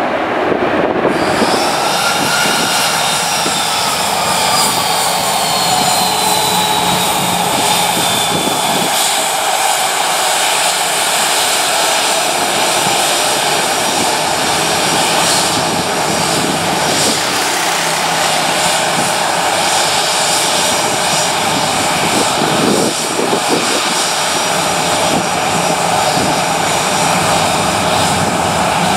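Jet airliner engines, close and loud: a whine that falls in pitch over the first several seconds, then a steady rushing noise.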